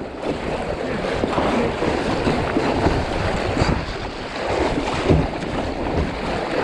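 River water rushing and splashing around a kayak on a river in high flow, with wind rumbling on the microphone.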